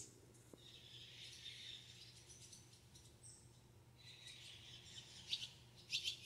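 Faint distant bird chirping in two spells, the second ending in a few sharper chirps, over a low steady hum.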